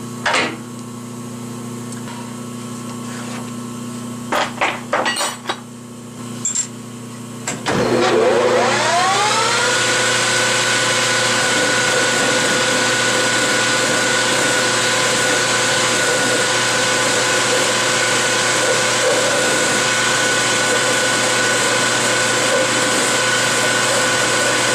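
A few clicks and knocks, then a metal lathe spins up to about 2,000 RPM: its whine rises in pitch for a couple of seconds and settles into a steady high-speed run.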